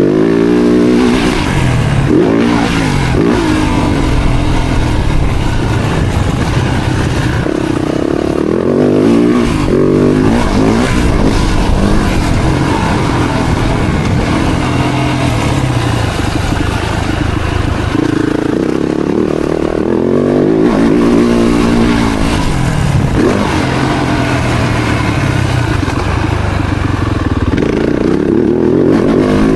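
Four-stroke single-cylinder motocross bike engine, loud throughout, revving hard and dropping back again and again, with the pitch climbing in rising runs several times.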